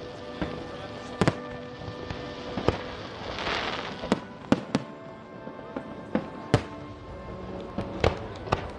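Fireworks display: a string of about a dozen sharp shell bangs at irregular intervals, with a short hissing crackle a little past three seconds in. Music with held tones plays underneath.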